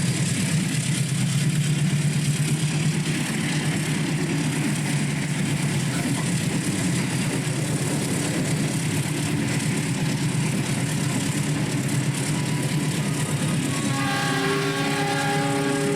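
Passenger train running through a station with a steady, loud rolling rumble and hiss. About two seconds before the end, a steady multi-pitched tone sounds over it.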